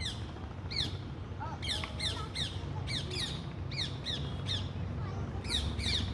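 Parrots screeching: a rapid series of short, harsh calls, each falling in pitch, often coming in quick twos and threes.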